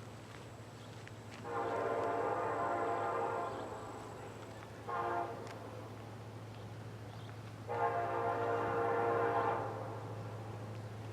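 Diesel locomotive air horn on an ex-CSX EMD SD70ACe sounding a long blast, a short one, and another long one, the close of the standard grade-crossing signal, over a steady low hum.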